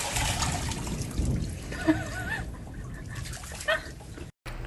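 A dog's short wavering whine about two seconds in, and a shorter one near the end, over a steady hiss.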